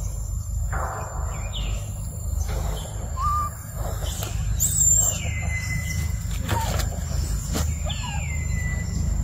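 Outdoor ambience with birds calling: a few whistled calls that slide down in pitch, the longest about four and a half seconds in and another near the end, and short chirps between them. A steady high tone runs underneath, over a constant low rumble.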